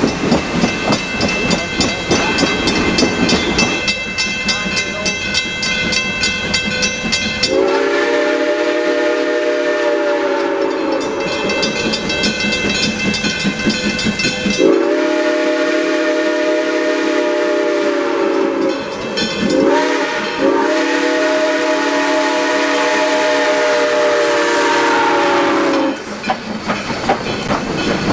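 Steam whistle of S160 2-8-0 locomotive #1702 sounding the grade-crossing signal (long, long, short, long) over the rumble and clickety-clack of the passing train.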